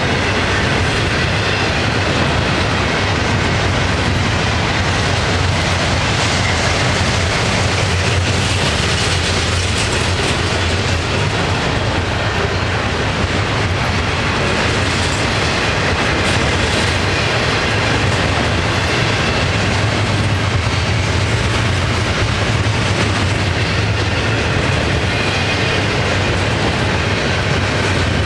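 Double-stack intermodal freight cars rolling past on a Florida East Coast Railway train: a loud, steady rumble and clatter of steel wheels on rail.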